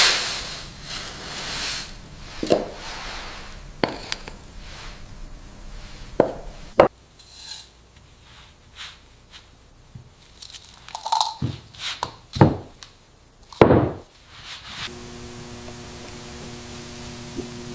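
Workshop handling noises: scattered knocks, scrapes, rubs and crunches of wood and materials being worked, with short gaps between them. Near the end a steady drone of several held pitches sets in.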